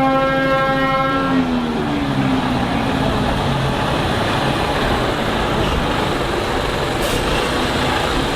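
Truck air horn held on one note for about a second and a half, its pitch sagging as it fades out. It sounds over the steady noise of truck engines running.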